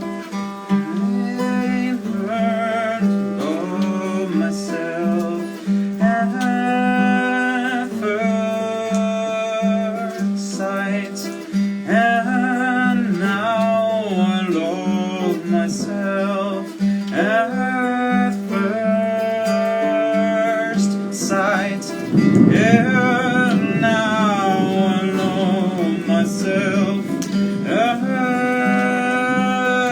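Acoustic guitar played as a live solo piece: a wavering melody over a repeated low bass note. About 22 seconds in, a louder, rougher swell of sound joins the playing.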